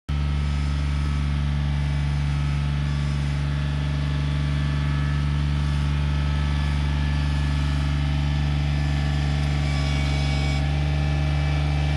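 John Deere 955 compact tractor's diesel engine running at a steady speed. It cuts in suddenly at the start and cuts off suddenly near the end.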